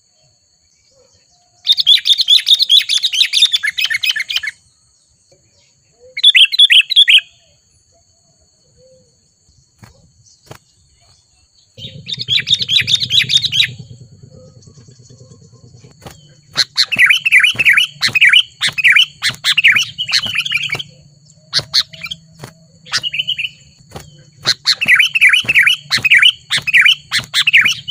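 Sooty-headed bulbul (kutilang) singing in bursts of rapid, chattering phrases: a few separate bursts at first, then near-continuous song in the second half. A faint steady high whine runs underneath, and a low hum comes in about halfway through.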